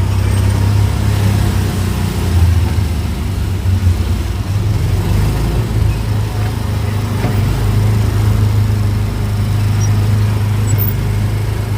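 Small gasoline engine of an Autopia ride car running steadily under way, with a low, even drone that swells a little now and then.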